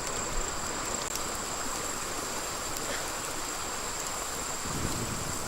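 Steady hiss of flowing water with a constant high-pitched insect drone over it.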